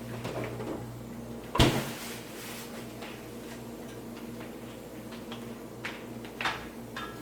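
A cupboard door shutting with one solid knock about one and a half seconds in, then a few light clicks and taps near the end, over a steady low hum.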